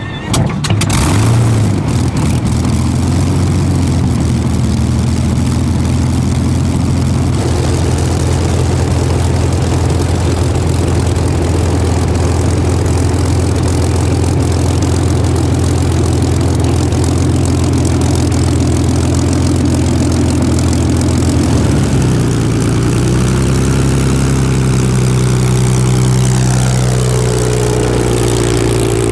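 Supermarine Spitfire's Rolls-Royce Merlin V12 aero engine running steadily. Its note shifts and climbs over the last several seconds as the power changes.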